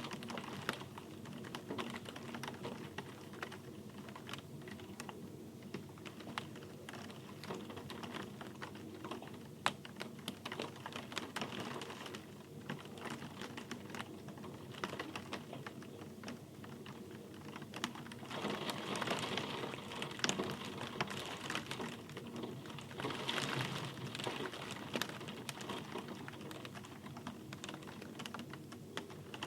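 Rain falling, with many separate drops ticking sharply on a hard surface over a steady hiss; the rain swells louder twice in the later part.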